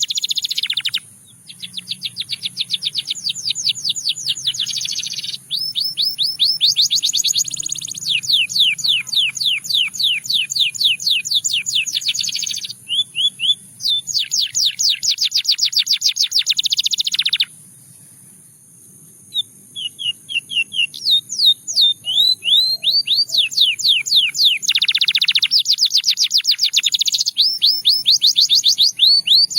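Russian singing canary (male domestic canary) singing long rolling trills of rapidly repeated notes, changing from one trill to the next, with brief pauses about a second in and again about two-thirds of the way through.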